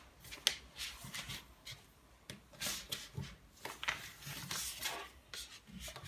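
Sheet of paper being folded and creased by hand, irregular crinkling and rustling with sharp little crackles as the folds are pressed down.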